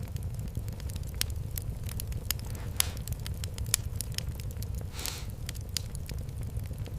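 Wood fire in a fireplace crackling, with irregular sharp pops over a steady low rumble of the flames and two brief hisses, about three and five seconds in.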